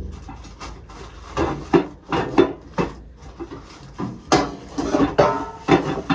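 Kitchen canisters and their lids knocking and clattering as they are handled, a quick run of sharp knocks, some with a short ring.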